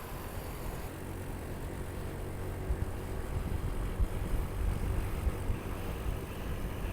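Motorcycle engine running steadily while riding, with wind buffeting the camera microphone in irregular low thumps that grow stronger after about two and a half seconds.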